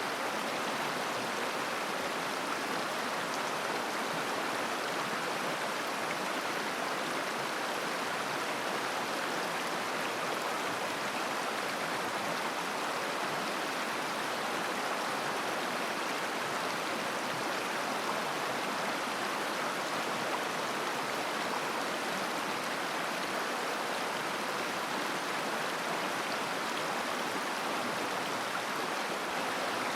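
River babbling as it flows: a steady, even rush of water with no changes.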